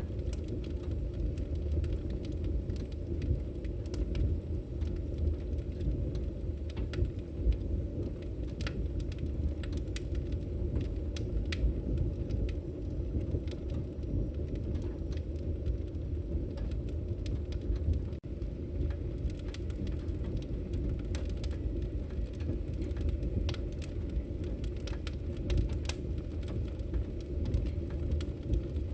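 Wood fire crackling in a fireplace: a steady low rumble of burning with scattered sharp pops and snaps throughout.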